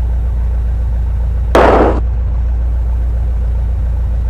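Van's RV-8 light aircraft's piston engine running steadily at low power in the cockpit. A short, loud burst of noise about a second and a half in lasts about half a second.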